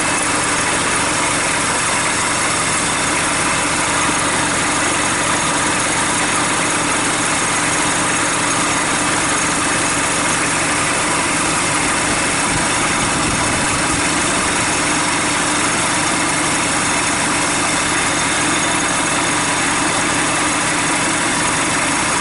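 Hyundai D4BH four-cylinder turbodiesel with a mechanical injection pump, idling steadily on a test run outside the vehicle.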